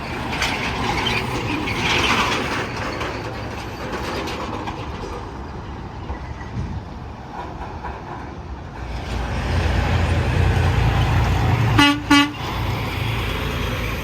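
Interstate traffic with heavy trucks passing, a deep engine and tyre rumble building from about nine seconds in, then two short blasts of a truck's air horn about twelve seconds in.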